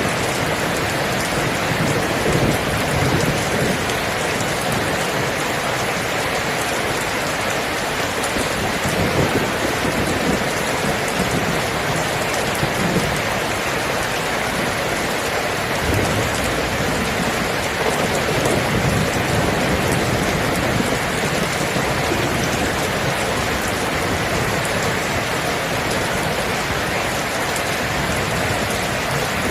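Steady heavy rain falling, a dense even hiss, with low rumbles of distant thunder swelling and fading several times.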